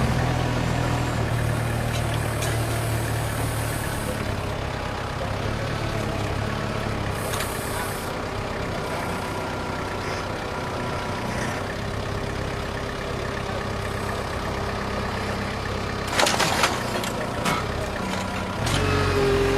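Heavy construction machine engine running steadily, with a few sharp clatters a few seconds before the end.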